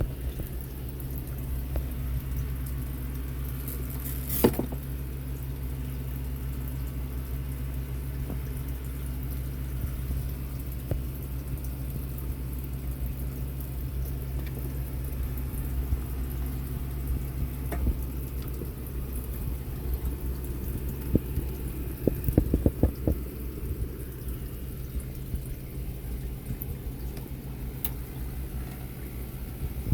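A steady low hum with scattered clicks and knocks: one sharp click about four seconds in and a cluster of knocks a little past twenty seconds. No saw is running.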